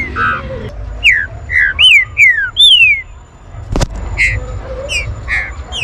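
Green-winged saltator (trinca-ferro) singing a run of loud, clear whistled notes that slide downward, with a short pause near the middle and then shorter, choppier notes. A single sharp click sounds about four seconds in.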